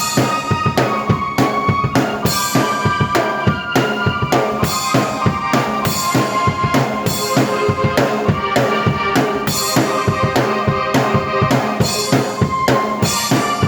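Drum kit, with bass drum, snare and rimshots, played in a steady driving rhythm together with keyboard tones.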